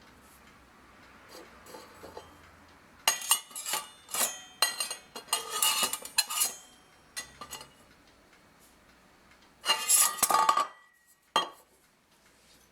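Small metal pieces clinking and clattering against each other in irregular clusters as they are handled, with a loud flurry about two-thirds of the way through and a single clink near the end.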